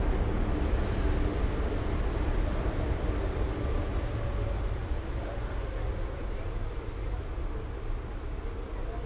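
Passenger train coaches rolling slowly into a station, a steady rumble of wheels and running gear heard from an open coach door. A thin, steady high-pitched squeal runs over it, and the rumble slowly eases as the train slows to a stop.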